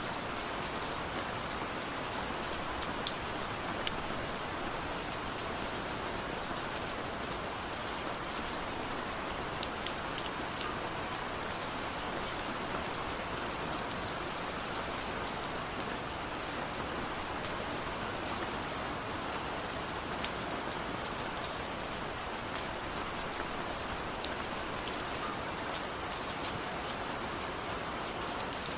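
Steady rain falling, a continuous hiss with many scattered sharp drop ticks.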